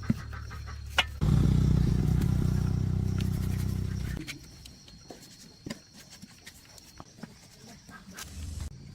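A low machine hum, then a louder, low, rapidly pulsing mechanical run for about three seconds that cuts off. Light clicks and knocks follow.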